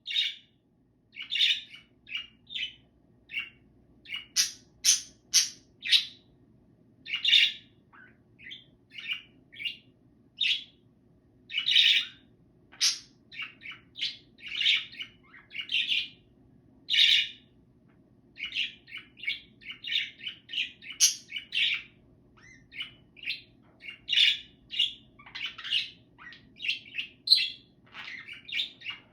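Budgerigar chattering: a long run of short, scratchy chirps and warbles in quick, irregular bursts, with brief pauses between phrases. A faint steady low hum lies underneath.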